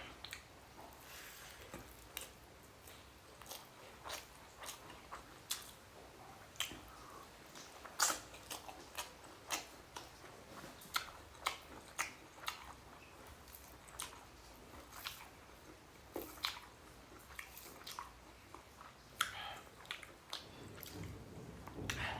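Close-up mouth sounds of a person eating rice and egg curry: chewing with many short, irregular wet clicks and smacks.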